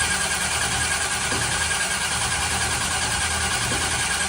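Twin-turbo NASCAR truck engine being cranked over by its starter, turning steadily without catching.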